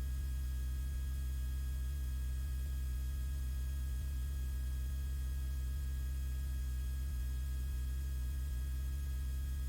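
Steady low hum with faint steady whining tones on the Bonanza cockpit's intercom audio, unchanging throughout: the in-flight engine and electrical noise that remains when the pilot's microphone is closed.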